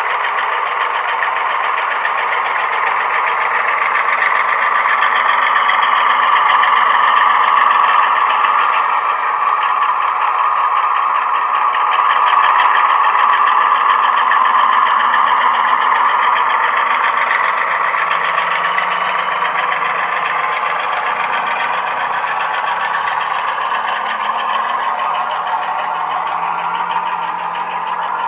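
DCC sound decoder (Legomann sound project) in a Heljan 00 gauge Class 35 Hymek model locomotive, playing diesel engine sound through a small speaker fitted in the fuel tanks. The engine note swells up and eases back twice as the loco runs.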